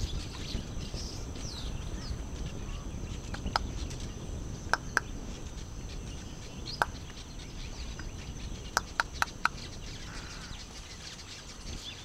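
Open-air ambience: a steady low rumble with a scatter of short, sharp bird chirps. The chirps come singly at first, then as a quick run of four about three quarters of the way through.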